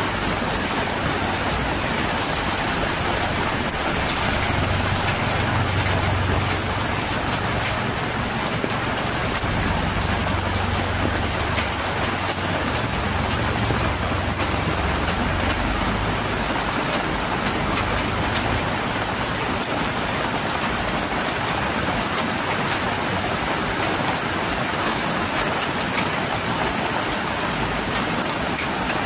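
Heavy tropical rain falling steadily on a paved street, leaves and roofs, with water pouring off a roof edge: a steady, even downpour.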